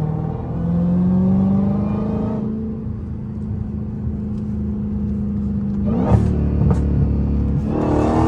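Straight-piped Dodge Hellcat Redeye's supercharged 6.2-litre Hemi V8 exhaust under acceleration, rising in pitch for the first couple of seconds, then settling into a steady drone at cruise. About six seconds in come a couple of sharp cracks from the exhaust.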